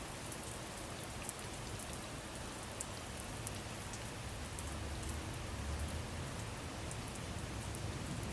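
Steady rainfall, an even hiss of rain with scattered drop ticks.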